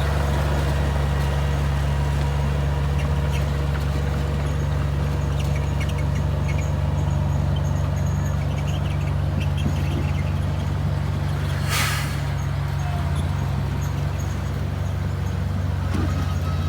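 Komatsu bulldozer's diesel engine running steadily under load, a deep continuous drone, with one brief hiss about twelve seconds in.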